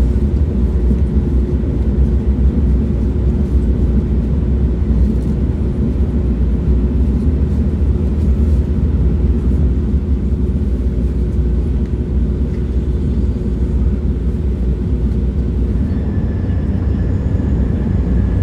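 Train running at speed: a steady, loud low rumble with a faint hum that gives way to a faint higher whine near the end.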